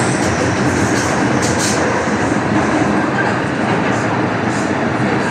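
MTR M-train electric multiple unit running along the line, a steady loud rumble of wheels and motors with a few brief high-pitched hisses or squeals.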